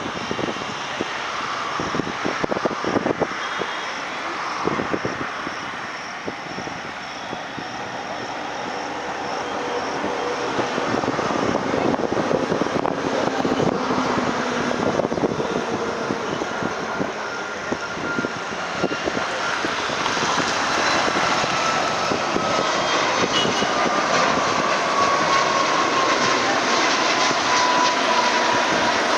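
Jet engines of a twin-engine narrow-body airliner, a steady engine noise that grows louder over the stretch. A thin whine slowly falls in pitch near the end.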